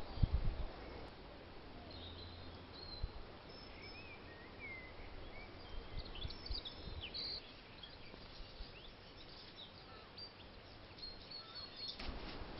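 Wild garden birds chirping and calling: scattered short high notes over a steady faint background hiss. A few dull low thumps right at the start, and low rumbling noise that rises near the end.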